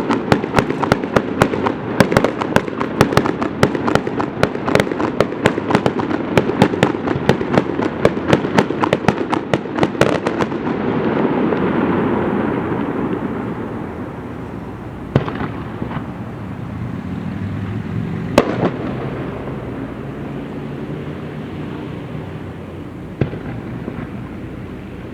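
Fireworks display: a rapid barrage of sharp bangs and crackles for about ten seconds, then a rolling rumble that swells and fades, with a few single bangs after it.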